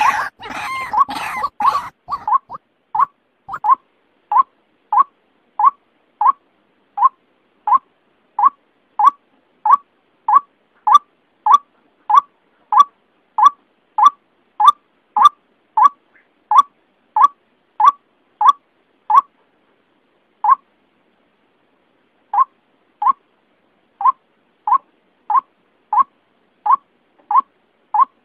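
White-breasted waterhen calling: a monotonous run of short, clipped notes repeated about two to three times a second. The calls overlap densely at first, then settle into an even series, with a break of about two seconds a little past the middle.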